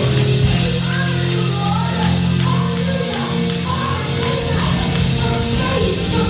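Gospel praise music from a live church band, with drums, guitar and bass under singing voices.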